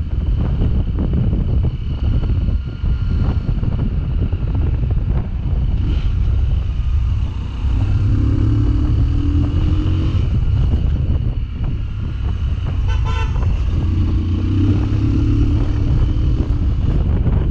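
A Sinnis Terrain 125's 125 cc single-cylinder engine running under way, with wind buffeting the microphone. The engine pitch rises twice as the bike accelerates, and a short horn toot sounds about 13 seconds in.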